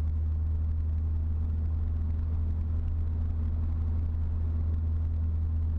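Ford Fusion Sport's twin-turbo V6 exhaust heard from inside the cabin, with a Magnaflow axle-back and both resonators deleted. The engine pulls under load at about 1700 rpm, giving a steady low drone over road noise.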